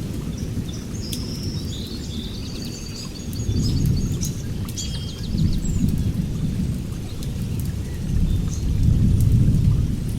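Rain falling with scattered drips over low rolling thunder that swells several times. A small bird chirps in a quick series during the first few seconds.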